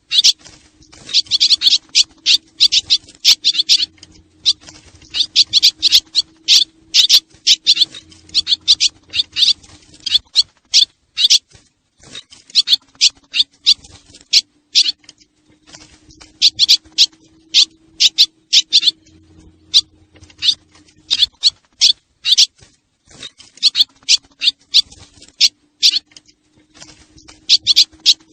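Swallow lure call: rapid, high twittering chirps of swallows in runs of about ten seconds, broken by short pauses about every eleven seconds, as in a looped recording. A faint low hum runs under the chirping and stops in the pauses.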